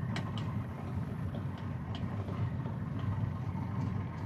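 An engine running steadily with a low, even hum, with a few faint short high ticks over it.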